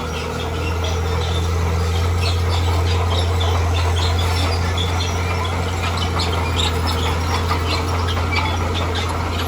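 Bulldozer's diesel engine running steadily under load, with irregular high metallic clicks and squeaks over the engine hum.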